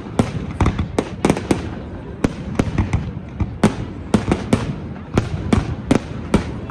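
Aerial fireworks bursting in rapid, irregular bangs, about three a second, over a continuous low rumble.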